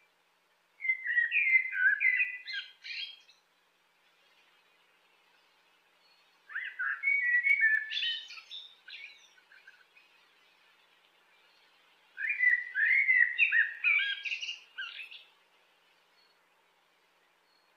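Common blackbird singing: three separate warbling phrases of a couple of seconds each, with pauses of a few seconds between them.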